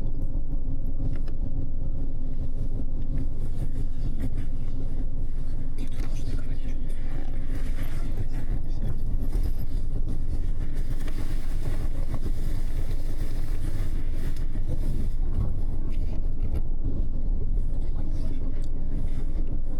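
Cabin noise on the upper deck of a moving double-decker bus: a steady low engine and road rumble with a hum, and more tyre hiss for a few seconds in the middle.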